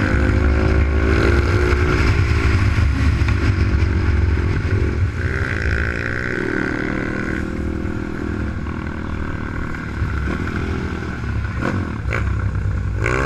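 Pit bike's Zongshen Z155 single-cylinder four-stroke engine running under an onboard camera, its revs rising and falling several times, with wind and road noise.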